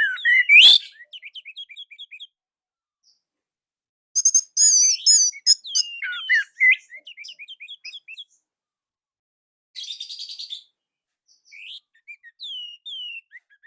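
Orange-headed thrush (anis merah) singing in loud bursts of varied, sliding whistled phrases and quick chirps, broken by pauses of a second or two. About ten seconds in comes a short harsh, grating phrase, followed by more fast chirps.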